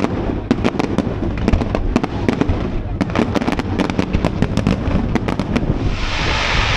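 Fireworks display going off: a rapid run of sharp cracks and pops over a constant low rumble of bangs, with a hissing rush starting about six seconds in.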